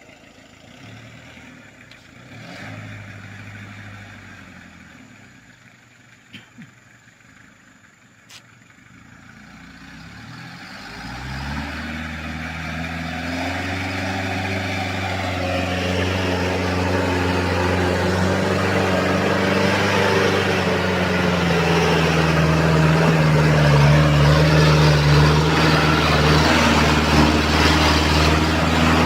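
Daihatsu Taft 4x4's engine working hard under load, struggling to climb a slippery road that is wet from rain after grading. It is faint at first, then builds from about ten seconds in to a loud, sustained run with a rising hiss, its pitch lifting for a while near the end.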